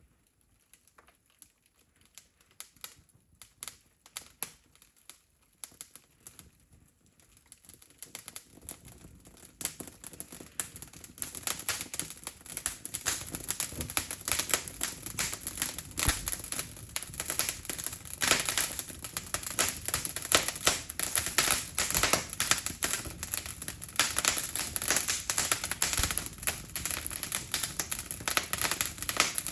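Wood fire crackling as it catches: scattered pops at first, building after about eight seconds into dense, louder, steady crackling.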